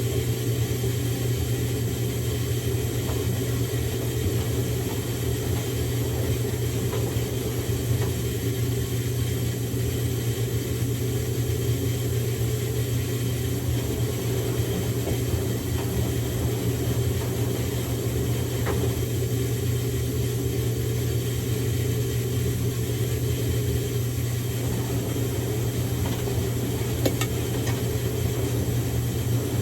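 Samsung Grande front-loading washing machine running a quick-wash cycle with a padded jacket inside: a steady low hum with a few faint ticks.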